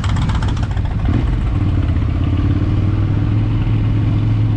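Motorcycle engine running at a steady, even pitch, settling into a steady hum about a second in, over a rushing noise.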